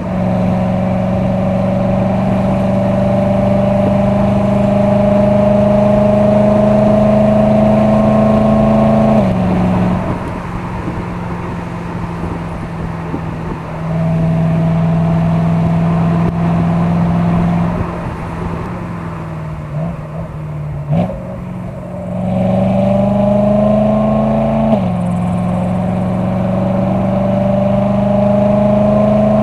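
BMW E92 M3's naturally aspirated S65 V8 breathing through an M Performance exhaust, heard from outside while driving: it pulls in long climbs with the pitch slowly rising. The note falls back sharply about nine seconds in and again near twenty-five seconds, easing off quieter in between before climbing again.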